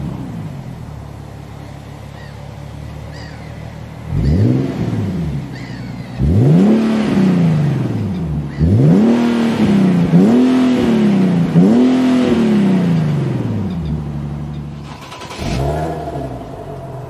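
Nissan 370Z's 3.7-litre V6 idling and being revved about six times in quick succession, each rev rising and falling back to idle. The middle revs come close together.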